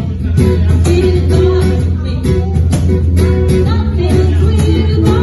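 A live band playing a pop song with a steady drum beat, bass and guitar, and some singing.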